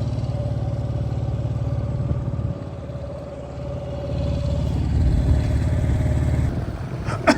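A small 7 hp four-stroke outboard motor running under way, pushing a loaded small boat; its steady low drone dips about a third of the way in, builds back up, and eases again near the end. A brief sharp click comes just before the end.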